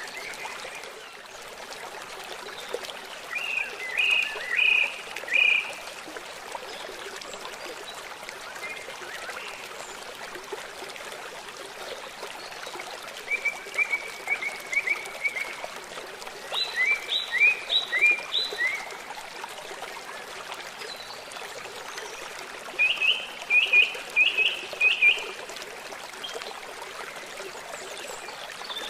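River or stream water flowing steadily, with a songbird singing four short bursts of quick repeated high notes over it.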